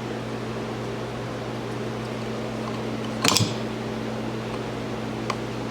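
Steady mechanical hum, with a brief clatter about three seconds in and a small click near the end, as a screw is driven into a tractor hydraulic pump with a flathead screwdriver.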